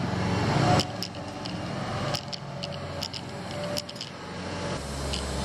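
Excavator engine running at a steady low hum, with scattered sharp clicks and clanks from the digging. The low rumble grows louder near the end.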